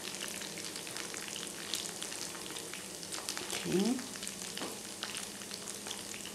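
Breadcrumb-coated meatballs deep-frying in oil: a steady sizzle with many small pops and crackles. A brief sound from a voice comes a little over halfway through.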